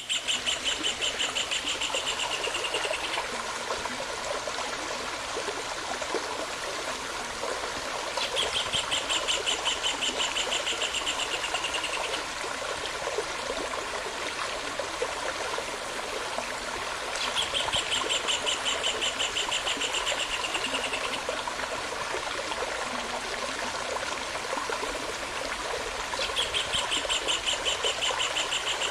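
A songbird's rapid, evenly pulsed trill, each about three to four seconds long, given four times roughly nine seconds apart, over the steady rush of a stream.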